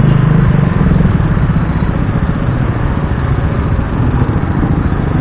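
Motorcycle engine running steadily under way, a dense, even drone with a fuller low hum in the first second.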